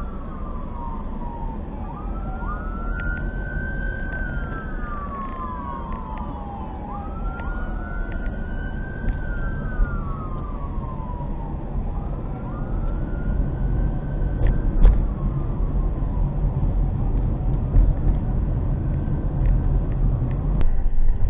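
Emergency vehicle siren wailing: slow rises and long falls in pitch repeating about every four to five seconds, at times two overlapping tones, fading out about two-thirds of the way through. A steady low rumble runs underneath, with one sharp knock near the end of the siren.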